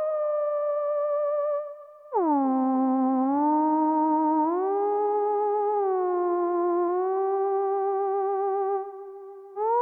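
Access Virus B rack synthesizer playing a monophonic lead patch: held notes with vibrato that glide from one pitch to the next. A held note fades out a little under two seconds in. A new note then glides down into place and steps up and back down. It fades near the end, and another note begins.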